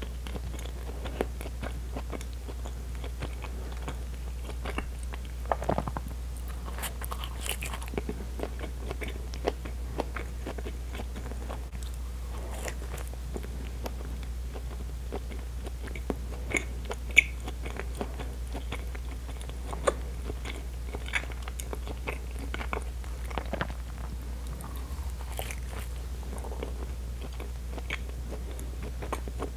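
Close-miked chewing and biting of soft bread, with irregular sharp mouth clicks and small crackles of crust throughout; a steady low hum runs underneath.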